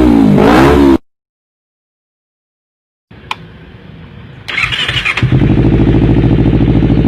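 Honda CBR250RR parallel-twin engine revving up and down, cut off abruptly and followed by a couple of seconds of dead silence. After a click, the starter cranks briefly and the engine fires and settles into a steady idle.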